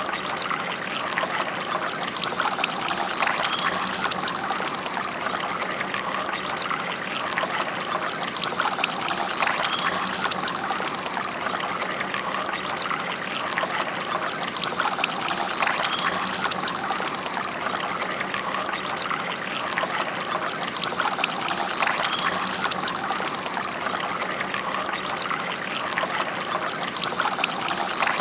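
Water trickling and splashing steadily down the tiers of a three-tier pineapple-style garden fountain.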